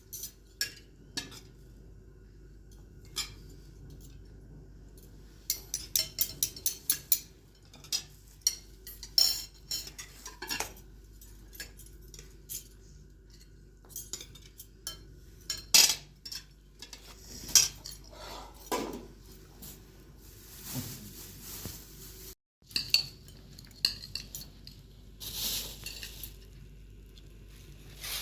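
Metal cutlery and dishes clinking and scraping against plates and pots in irregular, scattered clicks.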